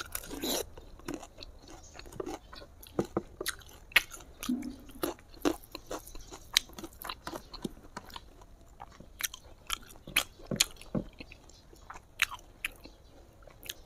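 A person chewing smoked pork with the mouth close to a clip-on microphone, giving irregular wet clicks and smacks several times a second.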